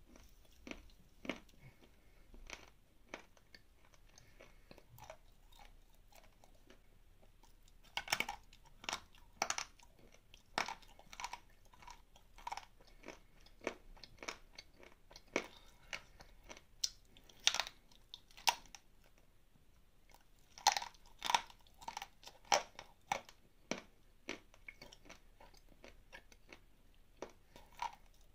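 A person biting and chewing chunks of dry, crumbly clay close to the microphone, with crunches and mouth sounds. The first few seconds hold only a few soft chews; from about a third of the way in, crisp crunching bites come thick and fast.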